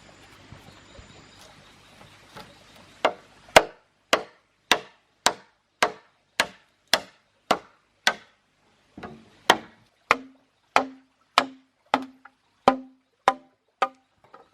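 A run of sharp knocks struck in a steady rhythm, a little under two a second, starting about three seconds in, with a brief break in the middle; the later knocks each carry a short low ring.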